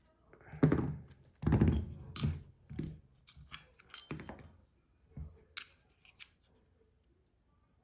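Two pairs of pliers clicking and scraping against a stainless steel pocket clip as it is bent back to close its gap. It is a run of short metal clicks and scrapes, heaviest in the first couple of seconds, thinning out and stopping about six seconds in.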